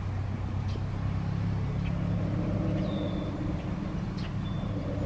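Steady low engine hum like an idling car, with a few short, high bird calls about three seconds in and again near the end.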